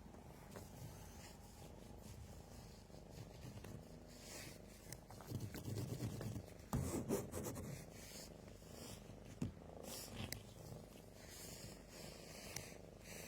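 Cat purring steadily and faintly, with louder rustling and a couple of sharp clicks a little past the middle.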